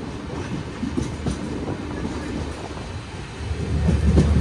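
Express train running on the track, heard as a steady rumble with scattered clicks and clatter from the wheels. A deeper hum builds and grows louder near the end.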